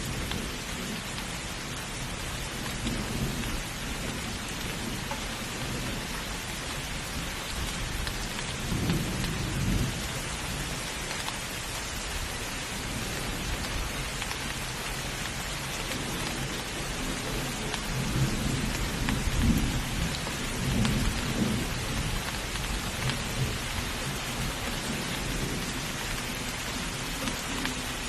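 Heavy rain falling steadily, with low rolls of distant thunder swelling several times, the strongest about two-thirds of the way through.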